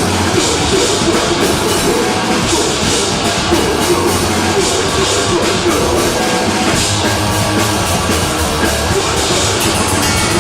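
A live deathgrind band playing: heavily distorted guitar and bass with fast pounding drums and crashing cymbals, loud and dense without a break.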